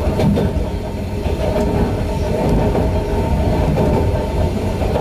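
Yokkaichi Asunarou Railway 260 series narrow-gauge electric train running at speed, heard from the driver's cab. Its wheels on the rails make a steady rumble with a hum and faint occasional clicks.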